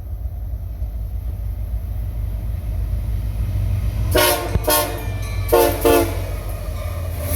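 Locomotive air horn sounding four short blasts in two pairs over the low rumble of an approaching train, which grows louder.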